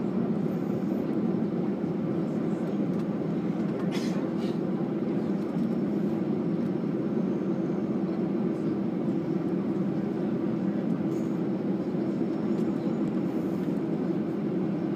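Steady low rumble inside a moving vehicle's cabin, with a faint steady hum and one brief click about four seconds in.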